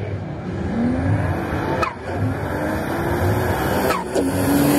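Turbocharged 3-litre Nissan RB30 straight-six in a Holden VL Commodore accelerating hard, its note rising through the gears. There are two manual gear changes, about two seconds and four seconds in. Each is a brief drop in sound with a short falling whistle as the throttle lifts.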